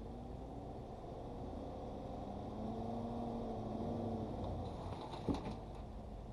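Chevrolet Silverado 1500 pickup engine running under load in four-wheel drive, revving up and then easing off. A single sharp knock about five seconds in.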